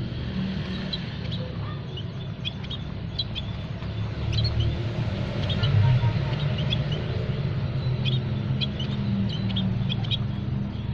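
Small aviary songbirds chirping with many short, high notes scattered throughout, over a steady low rumble that is the loudest thing present.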